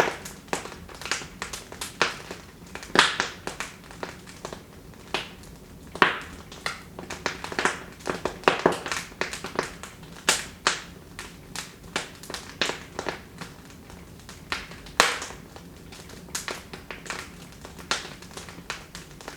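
Wood fire in a fireplace crackling, with irregular sharp pops and snaps several times a second, some much louder than others, over a faint low hiss.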